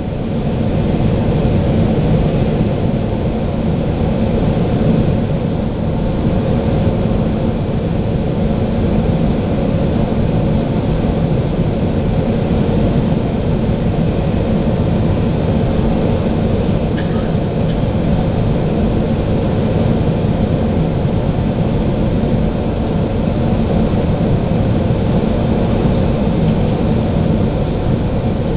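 Steady cabin noise of a Boeing 757 in flight, heard from inside the passenger cabin: engine and airflow noise, even and heaviest in the low range, with no change in level.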